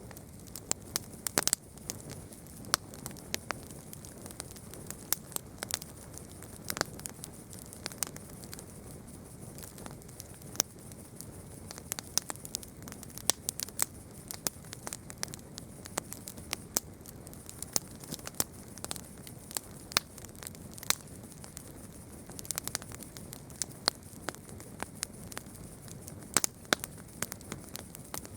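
Wood campfire crackling: irregular sharp pops and snaps, several a second at times, over a steady hiss of burning.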